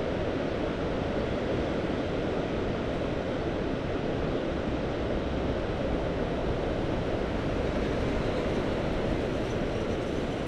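Sea waves washing steadily on the shore, heard as an even rushing noise.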